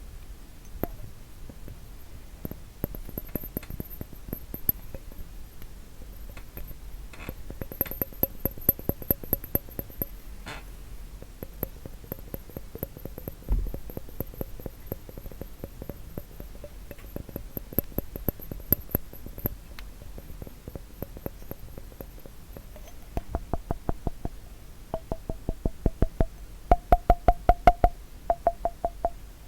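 Rapid tapping on a glass bottle, each tap giving a short ringing note, in quick runs of taps. Near the end the runs grow louder and faster and the note shifts in pitch from run to run.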